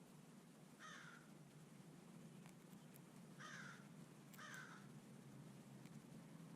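Crow cawing faintly three times: one caw about a second in, then two more in quick succession.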